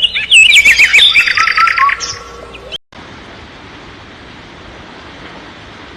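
A songbird singing loud, rapid whistled notes and trills that cut off abruptly about three seconds in. A steady hiss of noise follows.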